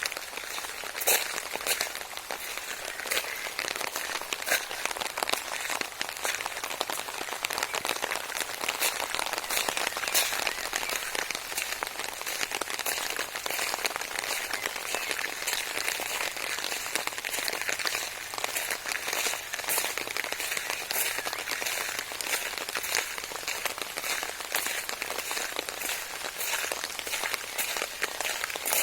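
Steady rainfall, with many single drops striking a nearby surface as sharp irregular clicks over the even hiss of the rain.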